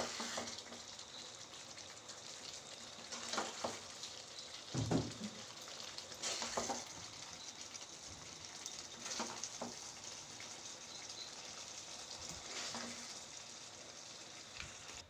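Pepper chicken faintly sizzling in its hot pan, with a spoon scraping and clinking against the pan or dish every few seconds as it is served out.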